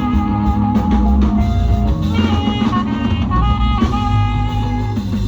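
Live band playing an Afrobeat instrumental groove, with a drum kit keeping a steady beat under held melodic notes.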